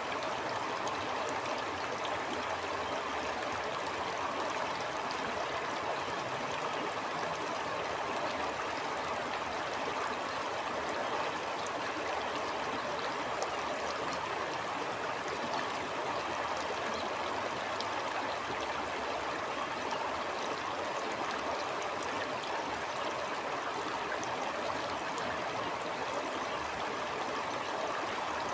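Stream water flowing steadily over rocks, with a constant rushing and light gurgling and trickling.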